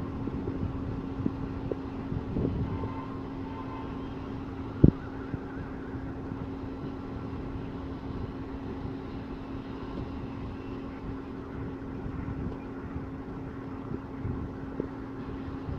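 A steady low engine hum over a rumbling, wind-like noise, with one sharp knock about five seconds in.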